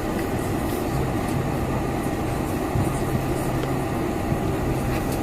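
Steady cabin noise inside a Boeing 747-400 airliner: an even rushing hum with a low steady drone underneath.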